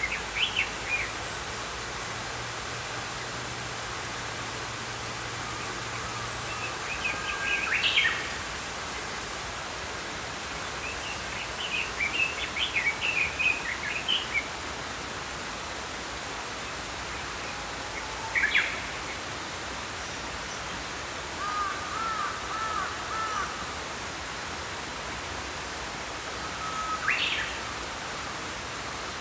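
Small songbirds chirping in short high phrases every few seconds, over the steady sound of a flowing stream.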